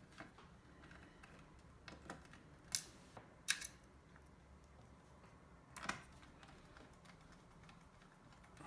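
Scattered light clicks and taps from small console parts and a screwdriver being handled during PS4 Slim reassembly. The sharpest two come a little under three seconds in and at about three and a half seconds, with softer ones around two and six seconds.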